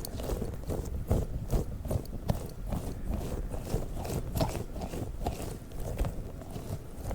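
Soft squishy balls handled close to a microphone: a quick, irregular run of soft taps and squishes.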